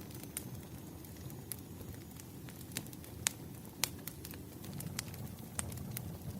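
Wood campfire burning, a steady low rumble of flames with scattered sharp crackles and pops, the loudest two a little past the middle.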